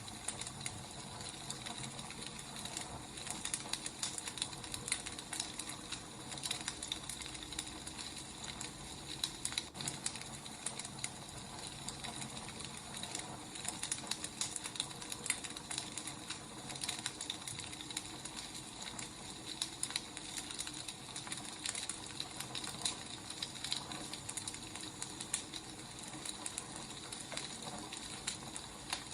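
Wood fire burning, with a steady hiss and many small, irregular crackles and pops.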